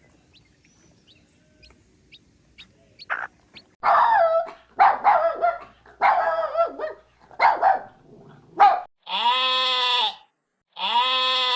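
Animal calls: faint clicks at first, then about five seconds of short, uneven cries that shift in pitch. Near the end come two long, steady calls about two seconds apart.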